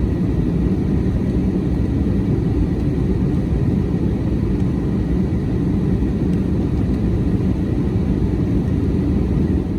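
Steady, loud low rumbling noise without any tone or rhythm.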